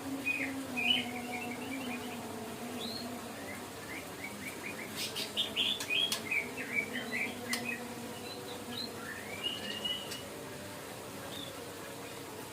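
White-rumped shama (murai batu) chirping in short, quick phrases of high notes, busiest around the middle, with a few sharp clicks among them over a faint low steady hum.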